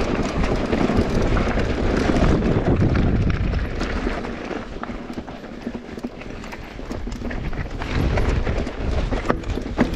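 Mountain bike riding down a bike-park trail: tyres rolling over dirt and stones, with rapid rattling knocks from the bike over the bumps, easing off somewhat midway and building again.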